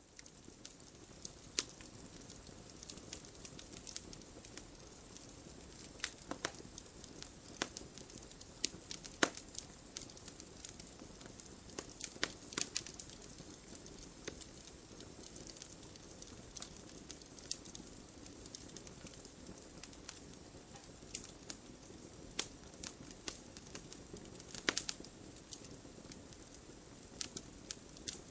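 Wood fire crackling: a steady soft hiss with irregular sharp pops and snaps, a few louder pops standing out near the middle and near the end.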